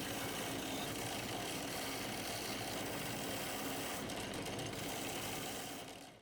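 A motor-driven tool running steadily at constant speed, ending abruptly near the end.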